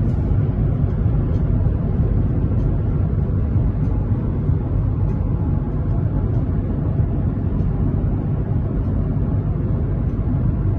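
Steady road and engine noise inside a moving car's cabin at highway speed, a constant low rumble.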